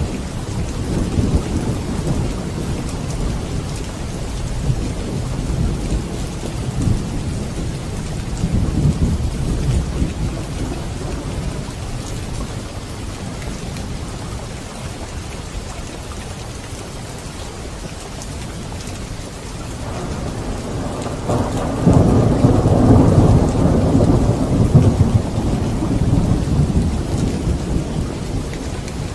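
Steady heavy rain with rolling thunder. The low thunder rumble eases in the middle, then a long roll builds about two-thirds of the way through and is loudest near the end.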